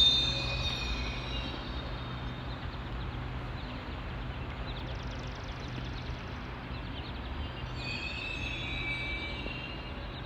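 GO Transit commuter train's wheels squealing, the squeal fading out within the first second or two, then a steady low hum from the idling diesel locomotive, with a faint squeal again near the end.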